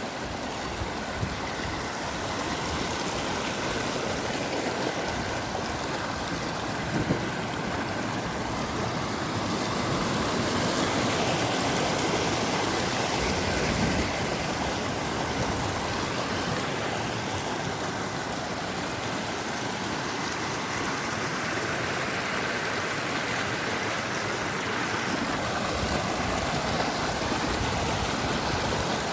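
Rushing water from a mountain stream or falls: a steady, unbroken wash of noise.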